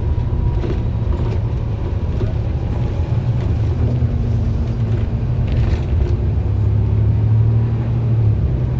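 MAN bus's diesel engine running as the bus drives along, a steady low drone that grows a little louder in the second half.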